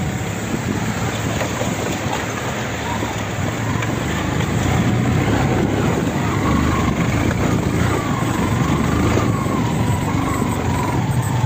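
Motorcycle engine running steadily, growing louder about four seconds in.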